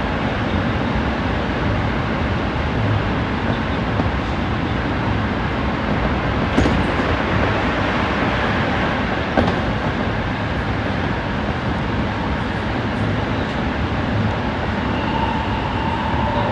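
Tsukuba Express electric train running through an underground tunnel, heard from inside the front car: a steady rumble of wheels on rail, with two sharp knocks about six and a half and nine and a half seconds in. A faint whine comes in near the end.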